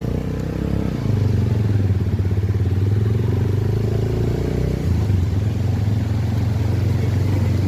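Motorcycle engine running steadily with a low hum, getting louder about a second in.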